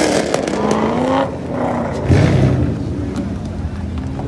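Car engine revving in short blips, its pitch rising and falling, with a louder rev about two seconds in.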